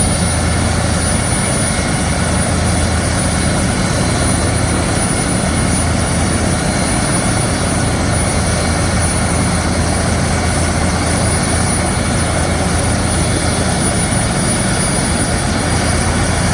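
Minnesota State Patrol aircraft N119SP idling on the ground before takeoff: a steady, loud engine rumble with a thin, high, constant whine above it.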